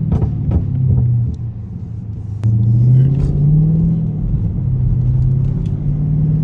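Dodge Charger's 392 HEMI V8 exhaust, tuned to pop: a few sharp exhaust pops in the first second or so. About two and a half seconds in the engine gets louder as it accelerates, its pitch rising, dipping briefly and rising again.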